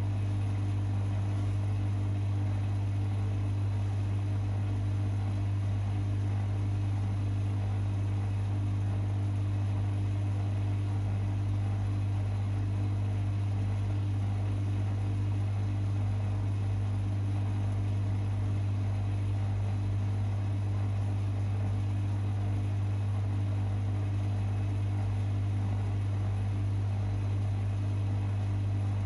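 Privileg 5020 front-loading washing machine running steadily partway through an Easy-Care 40 °C cycle, with a strong unchanging low hum and no rhythm or change in pitch.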